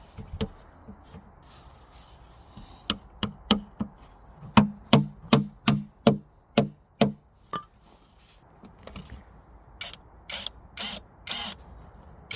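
Repeated knocking while fitting camping gear parts together: a run of about a dozen sharp knocks, roughly two to three a second, then a few lighter clicks near the end.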